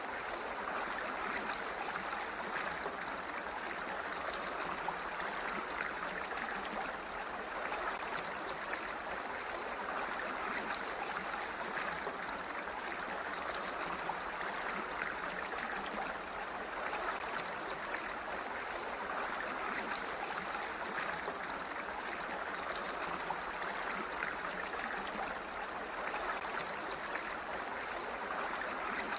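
Water flowing steadily, an even rushing with no breaks or changes.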